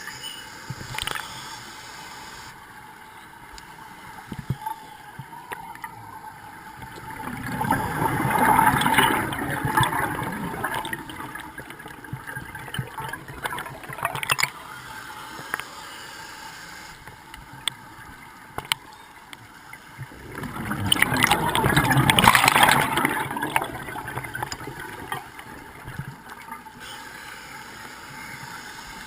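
Scuba diver breathing through a regulator underwater: two long, gurgling rushes of exhaled bubbles, one about a third of the way in and one about two-thirds in, with quieter underwater crackle between them.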